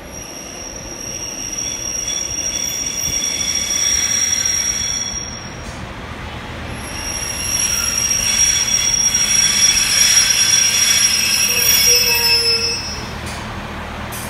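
Northern Class 142 Pacer diesel railbus arriving and slowing to a stop, with a high-pitched squeal from its wheels and brakes in two long stretches. The squeal cuts off near the end as the train halts.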